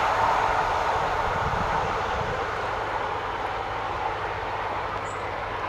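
A regional passenger train running away along the track, its rumble fading slowly as it recedes into the distance.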